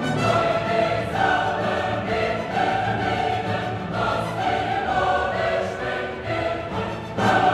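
Background music: a choir singing long held notes with orchestral accompaniment.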